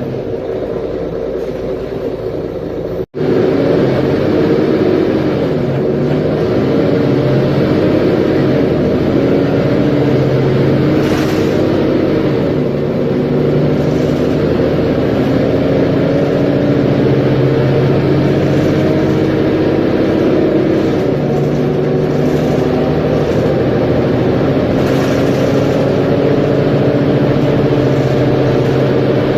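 Mercedes-Benz Conecto G articulated bus's OM457LA straight-six diesel engine running under way, its note rising slowly as it pulls and dropping back, over and over. The sound cuts out for an instant about three seconds in and comes back louder.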